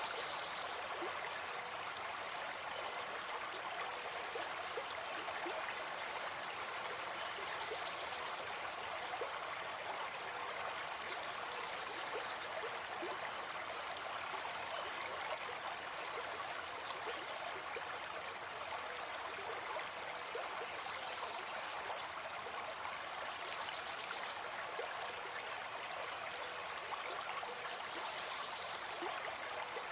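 Gentle forest stream flowing over rocks, a steady babbling and trickling of water.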